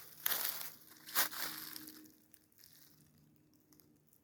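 Footsteps crunching through dry leaves and brush on the forest floor, a few steps in the first two seconds, then the sound drops to near quiet.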